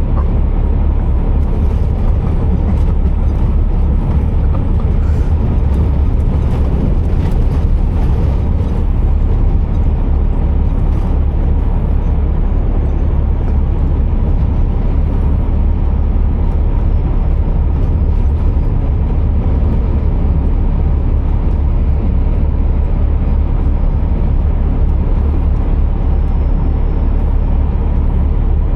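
Scania R480 heavy truck's diesel engine running with a steady low drone and road noise, with a few light clicks in the first several seconds.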